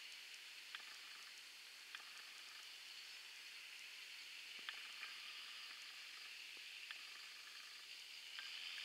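Faint steady hiss of rain, with a few scattered ticks of drops landing.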